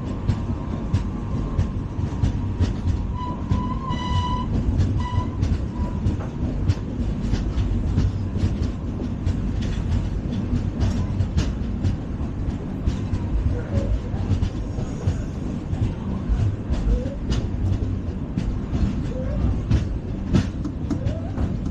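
LHB passenger coach running at speed, heard on board: a steady track rumble with frequent clicks and rattles from the wheels over the rails, and a brief high squeal about four seconds in.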